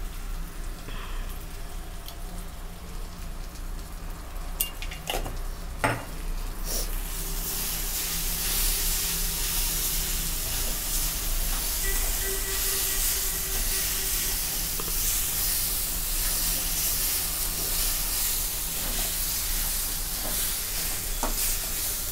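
Soaked poha (flattened rice) stirred with a metal spatula in a hot kadai. A few metal clinks in the first six seconds, then steady sizzling from about seven seconds in as it fries.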